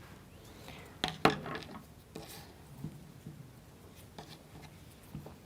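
Scattered small clicks and scrapes of wooden model-kit parts being handled and trimmed, the loudest a pair of clicks about a second in, as the excess is cut off a freshly fitted wheel.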